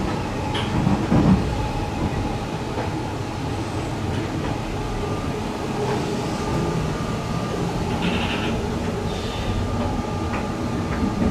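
Running noise of an E353-series electric express train in motion, heard from inside the car: a steady low rumble with a few light clicks.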